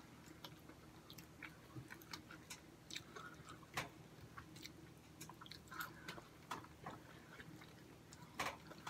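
Faint chewing and eating sounds, with scattered small clicks and taps through it and a couple of louder ones.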